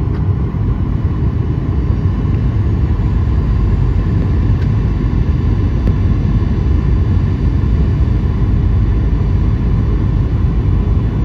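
Steady low rumble of an airliner's engines and airflow heard inside the passenger cabin on approach.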